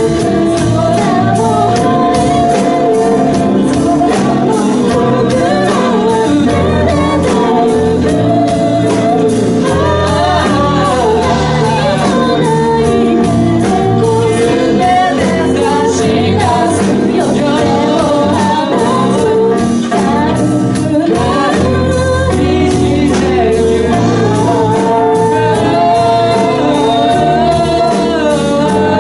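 Live pop-band music with keyboard and singing, the voices sustained and gliding with no clear words.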